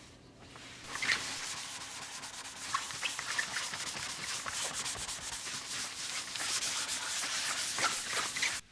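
A scratchy rubbing sound, like something being wiped or brushed across a surface, starting about a second in and cutting off abruptly near the end.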